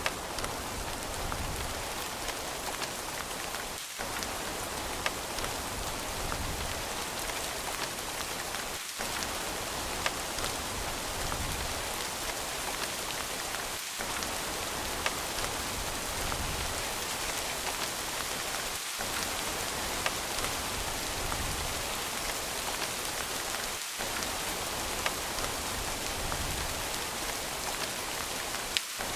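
Steady rain falling on a surface, with scattered sharp drop ticks. The low part of the sound dips briefly about every five seconds.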